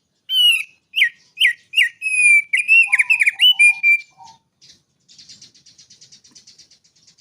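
Small songbird singing: a run of loud, sharp whistled notes that slur downward, then a fainter fast, dry rattle near the end.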